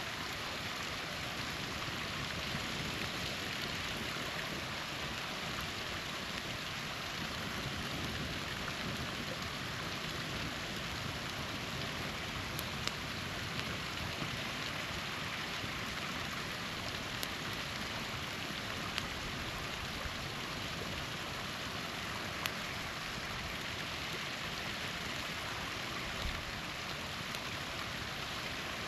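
Small waterfall running steadily, with a campfire crackling: a few sharp pops in the second half.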